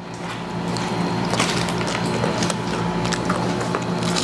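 Close-miked crunching and crackling of crispy fried chicken skin being chewed, over a steady low hum.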